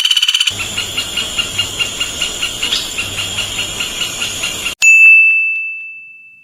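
A woodpecker calling, a steady series of sharp high notes about four and a half a second, over a background hiss, after a fast trill breaks off half a second in. Near the end it cuts to a single loud ringing tone that fades out over about a second and a half.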